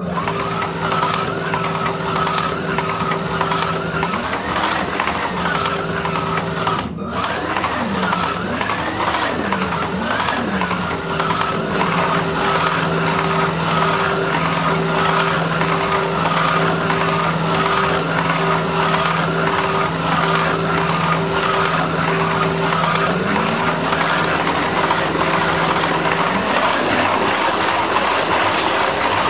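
Slot cars running on the track: a steady electric-motor drone whose pitch rises and falls several times as the cars speed up and slow down, over fast, even ticking.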